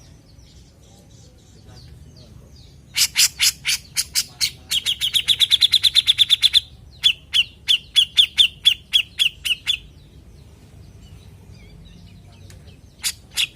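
Grey-cheeked bulbul (cucak jenggot) calling in long runs of fast, sharp repeated notes, several a second. After a few seconds of faint twittering, two runs come in close succession, then after a pause another starts near the end.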